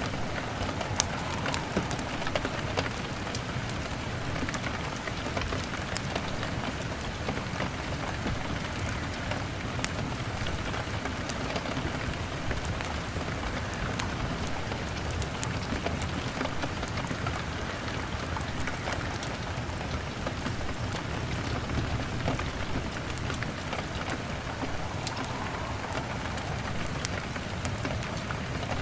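Steady rain falling on a window glass, with the sharp crackles of a wood fire scattered throughout.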